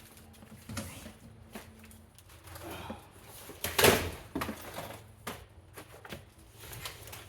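Scattered knocks and clatter of plastic, with one loud crack about four seconds in as something plastic is stepped on and cracks underfoot.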